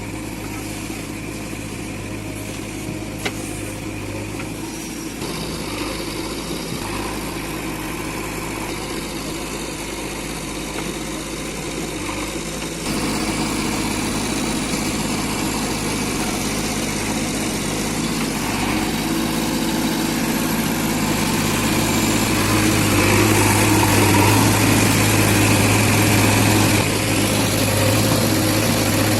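JCB 3DX backhoe loader's diesel engine running steadily. It gets louder suddenly about halfway through and louder again near the end, as the machine works under load.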